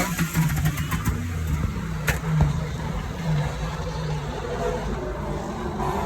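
A car engine running steadily, with a few sharp clicks.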